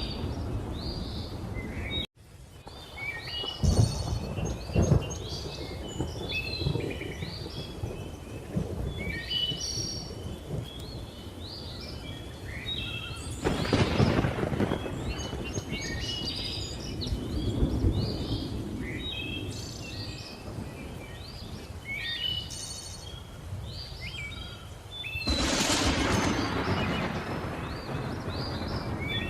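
Many birds calling and chirping without pause, over rolls of thunder: sharp cracks about four seconds in, a rumble around fourteen seconds and a longer one from about twenty-five seconds. The sound drops out for a moment about two seconds in.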